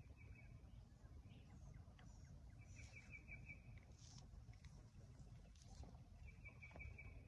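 Near silence with a faint low rumble, in which a small songbird sings a short, high trill of rapid notes three times, about three seconds apart, among a few other faint bird chirps.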